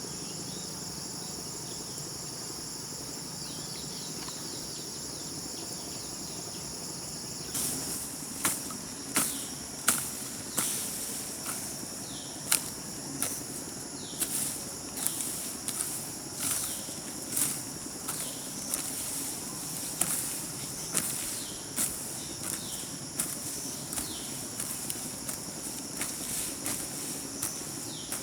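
Garden hoe chopping into grass and soil in a steady rhythm, a sharp stroke a little more than once a second, starting about seven seconds in. Steady high drone of insects underneath.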